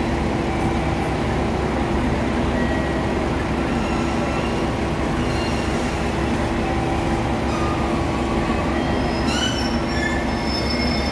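Steady low rumble and hum of a diesel train heard inside its carriage, with a few faint, short high squeals about nine seconds in.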